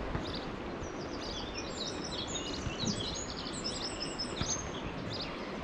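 Small songbirds chirping in quick runs of short high notes over a steady rushing background noise.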